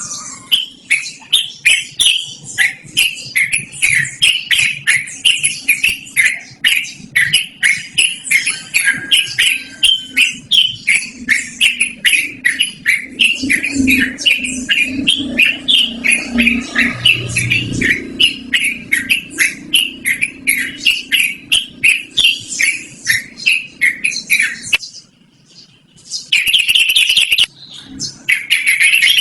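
Yellow-vented bulbul (trucukan) singing a long rolling string of quick, clear falling notes, several a second. It breaks off briefly near the end, then picks up again in denser bursts.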